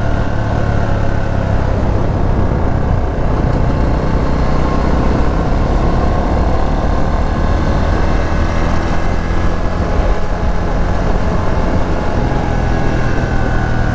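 Small Herald motorcycle's engine running under way, its note sliding up and down a little with the throttle, over a steady rush of wind and road noise.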